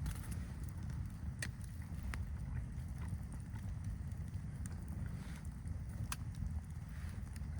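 Steady low wind rumble with a campfire crackling, giving a few sharp pops.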